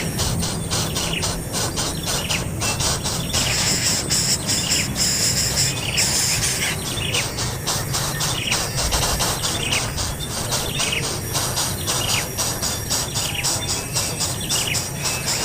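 A bird giving short, falling chirps over and over, about one a second, against a dense, fast insect-like buzzing or trilling.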